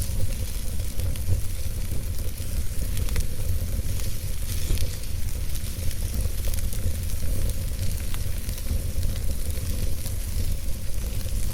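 Campfire burning: a steady hiss with scattered small crackles and pops over a low rumble.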